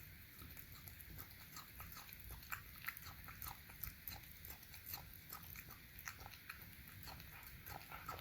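A cat eating wet food, with faint, irregular smacking and chewing clicks, several a second.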